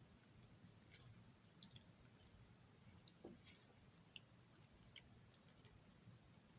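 Faint scattered clicks and ticks of small parts being handled as a model passenger car's truck is fitted back on, with a few sharper clicks about a second and a half in and near five seconds.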